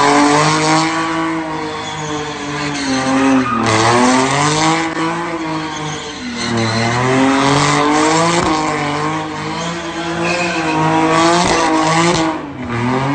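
Ford Mustang engine revving hard while the car spins donuts, the revs swinging up and down every few seconds as the rear tyres squeal against the pavement.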